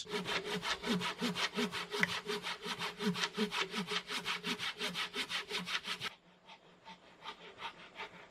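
Hand saw sawing through a log in fast, even strokes, about five a second. About six seconds in it drops suddenly to much fainter strokes.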